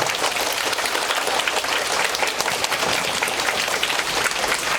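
Audience applauding steadily at the end of a children's musical performance, many hands clapping together.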